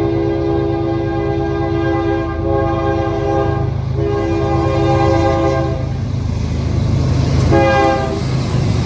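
Diesel locomotive's multi-chime air horn sounding two long blasts and then a short one, the opening of the long-long-short-long grade-crossing signal, over the low rumble of the train.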